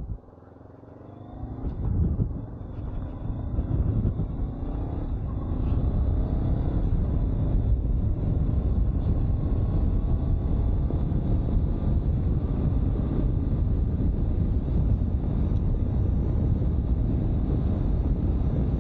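2022 Honda CB500X's parallel-twin engine pulling away, its pitch rising in several steps through the gears over the first few seconds. The bike then settles into steady road cruising, engine and wind noise rumbling over the microphone.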